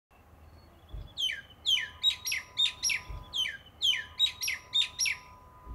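Bird calling: two quick phrases of about seven sharp notes each, every note falling in pitch.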